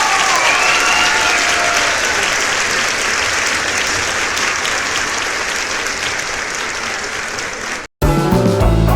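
Audience applause at the end of a live guitar number, the last bent guitar notes fading early on. Near the end it cuts off abruptly and loud rock music with drums starts.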